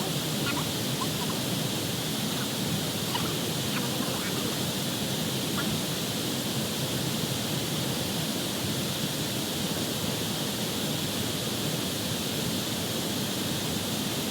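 Steady outdoor background noise with a constant high hiss. A few faint short chirps come in the first few seconds.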